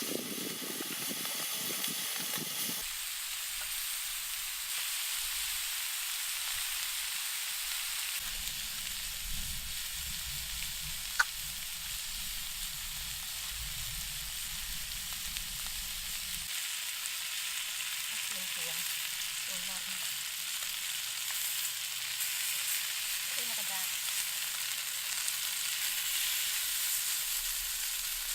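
Pig kidneys frying on a hot steel pan: a steady sizzling hiss, with a single sharp click about eleven seconds in.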